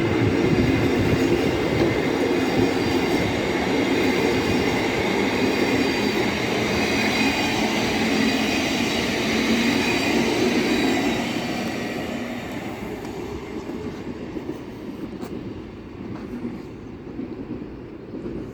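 Class 700 Thameslink electric multiple unit running past on the line, with a steady rumble of wheels on rail and a whine from its traction equipment. It fades as it moves away, from about eleven seconds in.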